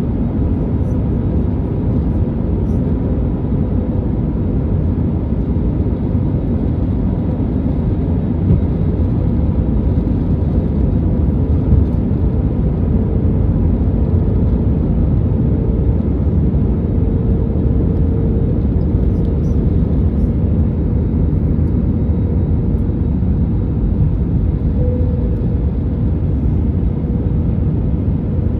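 Steady cabin noise inside an Airbus A321neo in flight: the even rush of airflow and the low drone of its Pratt & Whitney PW1100G geared turbofan engines, with a faint steady hum over it.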